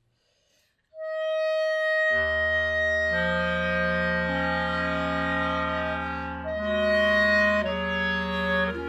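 Clarinet quartet playing slow held chords: after a brief silence a single clarinet enters on a high sustained note about a second in, and the other clarinets, including a low bass clarinet line, join about a second later. The chord shifts a few times near the end.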